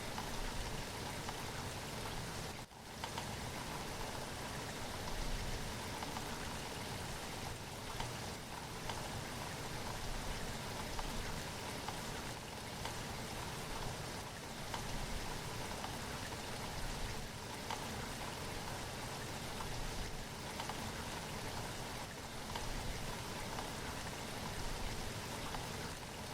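Steady rainfall, an even patter with no pauses, broken only by a brief drop in level about two and a half seconds in.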